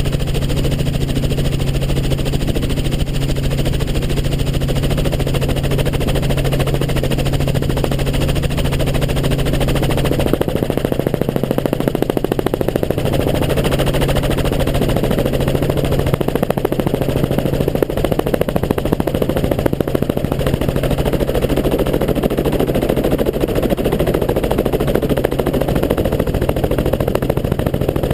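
Helicopter in flight: a steady, fast chop of the rotor blades over a constant low engine hum.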